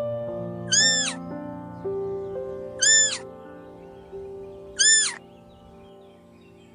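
Domestic cat meowing: three short, high-pitched meows about two seconds apart, each rising and then falling in pitch, over background music with sustained notes.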